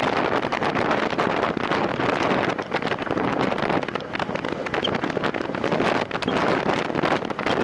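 Steady wind rush buffeting the microphone of a cyclist riding at racing speed in a time trial.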